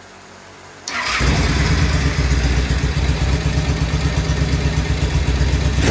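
Vintage British motorcycle engine, fitted with an Alton electric starter and Vape electronic ignition, starting on the button about a second in and catching at once, then running steadily.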